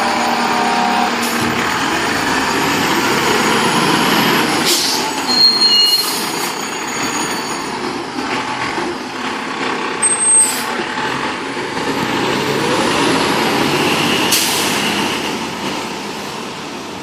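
Fire trucks' diesel engines running as they pull out, with several sharp hisses of air brakes.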